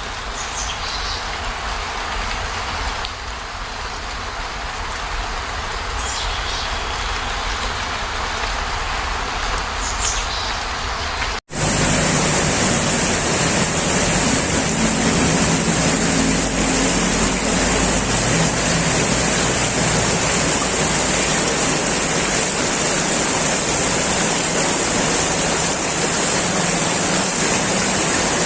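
Heavy rain pouring steadily. About 11 seconds in the sound cuts out for an instant and comes back louder, with a stronger high hiss.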